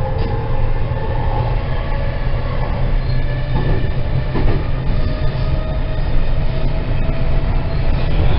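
Running noise heard inside a JR West 207 series 2000 subseries EMU with IGBT VVVF drive, at speed: a steady heavy rumble of wheels on rail with a faint whine over it.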